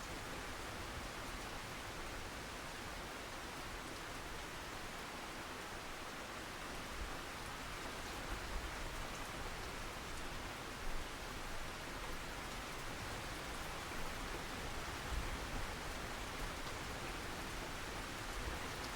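Steady rain falling, an even hiss with a few brief low thumps in the second half.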